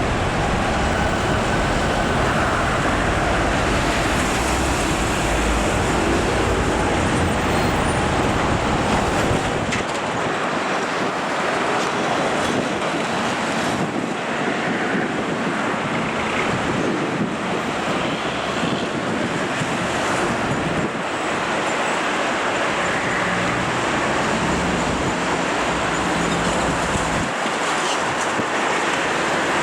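Road traffic noise with heavy trucks on the road. A deep low rumble drops away about ten seconds in, while steady road noise carries on.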